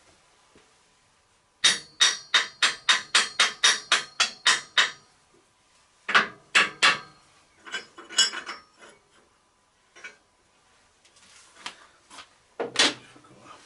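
Hammer striking metal. A quick run of about a dozen blows at roughly four a second, then three more blows, scattered lighter taps, and one last blow near the end.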